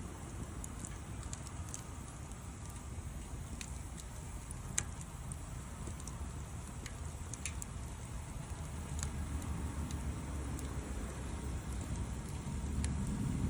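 Wood fire crackling: sparse, irregular pops and snaps, one sharper pop about five seconds in, over a steady low rumble that grows louder near the end.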